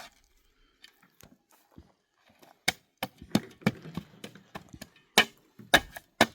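A series of irregular, sharp knocks and cracks, sparse at first and then louder and more frequent in the second half.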